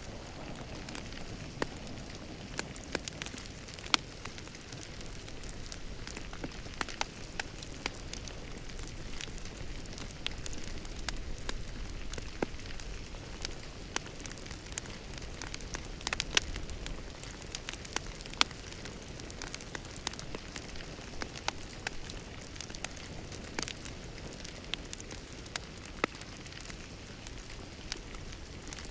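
Fire crackling in a fireplace: a steady low rumble and hiss of the flames, with sharp pops and snaps at irregular moments, a few of them louder.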